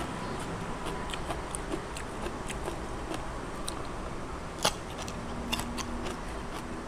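Chewing close to the mouth, with many small crisp clicks. About four and a half seconds in comes one sharper crunch as a whole raw red radish is bitten in half.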